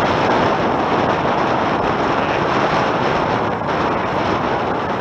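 Steady wind noise buffeting the microphone over the rush of water past a Tornado catamaran's hulls while it sails at speed.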